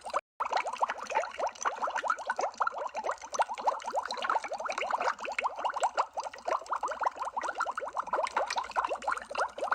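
Underwater bubble sound effect: a dense, steady stream of bubbles blooping, each a quick rising pip. It cuts out for an instant just after the start.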